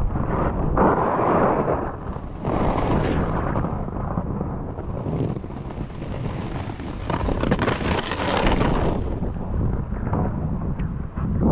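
Wind buffeting the microphone with a low rumble, over the hiss and scrape of a snowboard sliding on snow, which grows louder and brighter at about two seconds in and again from about five to nine seconds.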